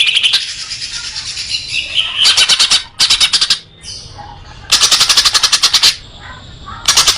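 Songbird calls from a bird-song tutor recording: loud, fast rattling trills in repeated bursts of half a second to a second, with softer chattering between them.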